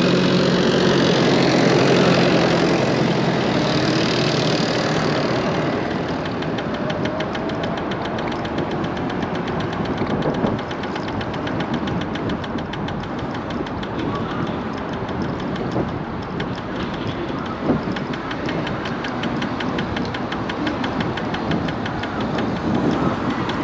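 Electric scooter being ridden, with wind and road noise, louder for the first few seconds. From about five seconds in there is a rapid, even ticking from the front wheel, where something like a cable is knocking against the fender, and a couple of single knocks.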